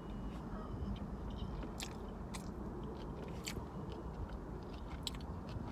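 A person chewing a mouthful of sushi close to the microphone, with a few sharp, wet mouth smacks spread through it. A steady low rumble runs underneath.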